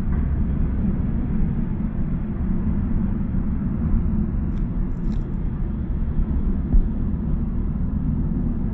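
Steady low rumble of a passenger train running, heard from inside the carriage, with a brief thump nearly seven seconds in.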